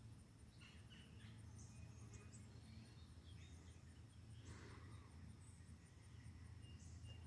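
Near silence outdoors: faint scattered bird chirps over a steady low hum, with a faint, even high-pitched insect pulsing about three times a second.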